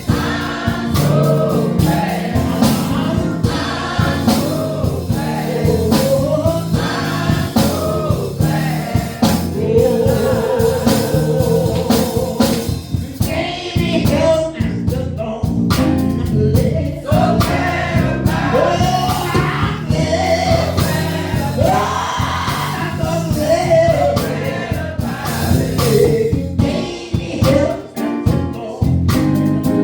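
Church choir singing a gospel song, with percussion hits and a full low accompaniment under the voices.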